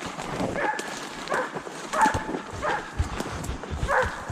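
Deer-hunting dog barking in short, high yelps, five times at a fairly even pace.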